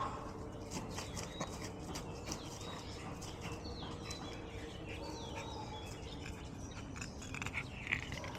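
Small birds chirping: many short calls and quick pitch slides scattered throughout, with one louder chirp near the end. Under them is a steady low outdoor background with scattered light clicks.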